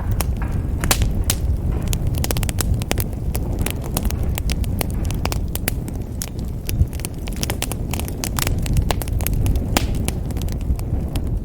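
Wood fire burning in a fireplace: many sharp irregular crackles and pops over a steady low rumble of the flames.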